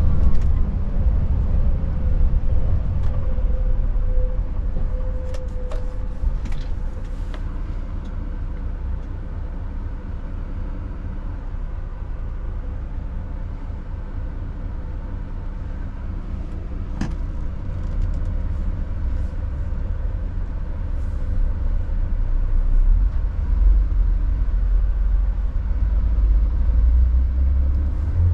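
Scania S580's V8 diesel engine running steadily on the road with a deep, continuous rumble, together with road noise. A few faint clicks occur.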